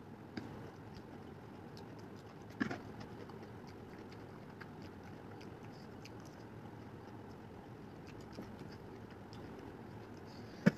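A person chewing a mouthful of chow mein noodles, with small wet mouth clicks over a steady low hiss. A sharper knock comes about two and a half seconds in, and another near the end.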